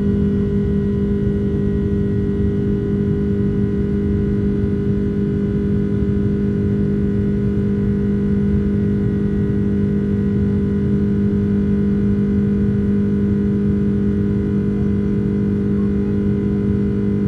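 Boeing 767-300ER cabin noise during the climb after takeoff: a steady engine drone and rumble with a strong low, even hum.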